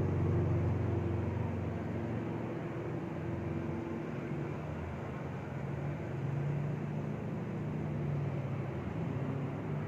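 Steady low mechanical rumble with engine-like droning tones that swell and fade every few seconds.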